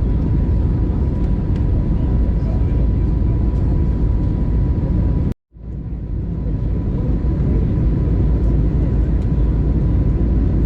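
Steady engine and airflow noise of an Airbus A320 heard from inside the cabin during takeoff, with a steady tone running through it. It cuts out abruptly for a moment about five seconds in, then comes back and builds up again over about a second.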